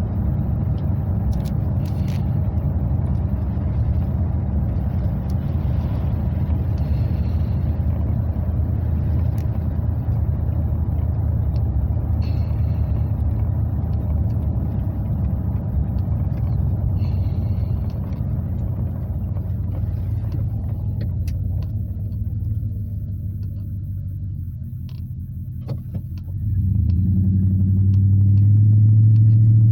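Cab interior of a 2003 Chevrolet Silverado 2500HD with a FlowFX aftermarket exhaust, windows up. The V8 exhaust drones low and steady while driving, eases off and grows quieter about twenty seconds in, then turns suddenly louder and deeper near the end as the truck accelerates again.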